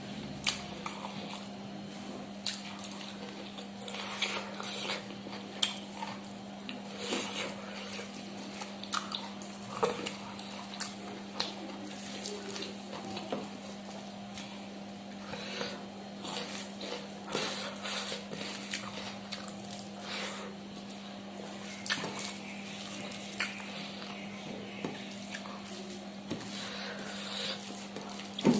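Scattered light clinks and taps of dishes and utensils, with some wet, squishy food sounds, over a steady low hum.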